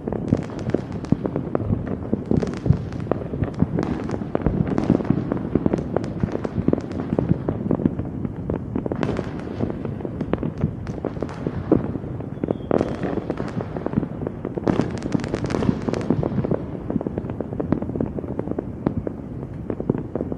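Fireworks going off in rapid succession, a dense, continuous run of bangs and crackling, with thicker bursts of crackle about nine seconds in and again around fifteen seconds.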